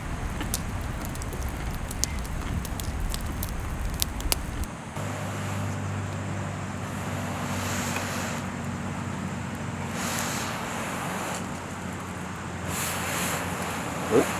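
Wood fire crackling with sharp pops, over wind rumbling on the microphone. About five seconds in this gives way to surf washing in slow surges over a steady low hum.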